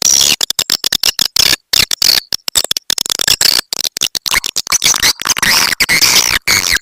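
Swiftlet lure call recording: fast, high, chattering twitters from swiftlets, chopped by many short silent gaps.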